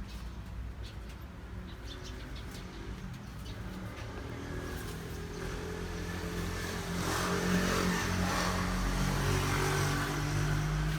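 Engine running with a low, steady drone that grows louder from about halfway through.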